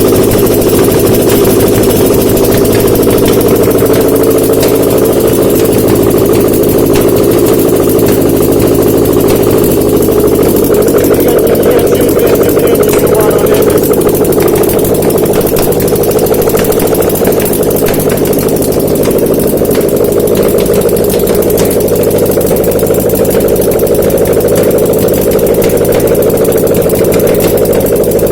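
Subaru EJ203 2.0-litre flat-four engine running steadily on a test stand, out of the car.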